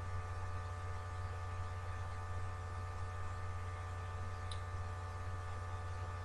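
Steady electrical hum with several high steady tones above it, and a single faint click about four and a half seconds in.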